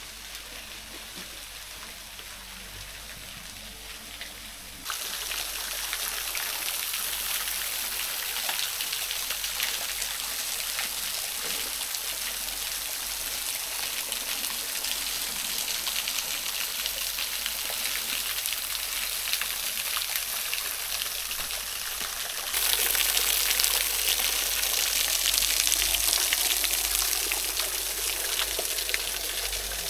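Steady rush and splash of falling water from a small waterfall. It jumps louder about five seconds in and again near the end.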